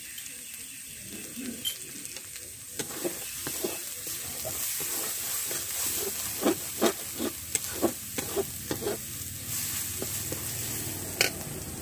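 Spice paste frying and sizzling in oil in a metal kadai while a slotted steel spatula stirs it, scraping and knocking against the pan in a run of strokes from about three seconds in, with one sharp clink near the end. This is the masala being fried down after the turmeric goes in.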